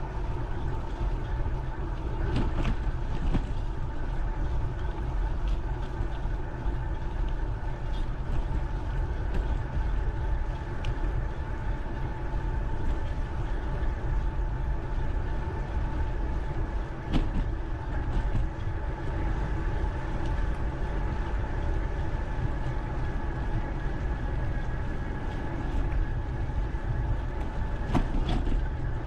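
Steady rumble of wind and riding noise on a camera mounted on a moving bike, with a steady whine and a few short knocks from bumps in the trail.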